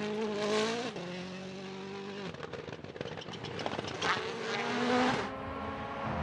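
Rally car engine at high revs on a gravel stage. About two seconds in it lifts off and a rapid crackling follows. It then pulls again with a rising note and changes gear near the end.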